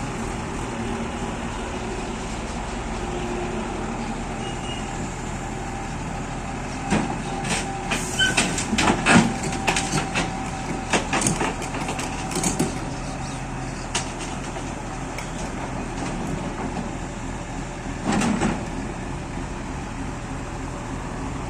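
A JCB machine's diesel engine runs steadily, with a cluster of sharp metallic clanks and knocks about a third of the way in and another short bout of knocking near the end as the machine is worked off the truck.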